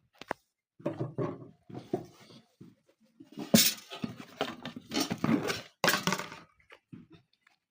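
Dishes and cooking utensils clinking and clattering in irregular bunches, busiest in the second half.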